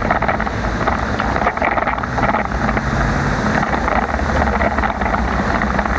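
Wind rumbling on the microphone of a moving bicycle, over a dense, crackling hiss of tyres and rain on a wet road.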